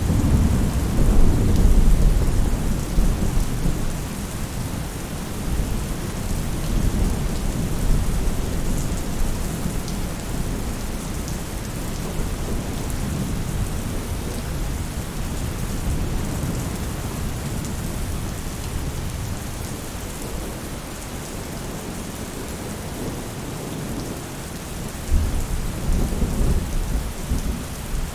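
Steady rain falling on a roof, with deep rolling thunder rumbles in the first few seconds and again near the end.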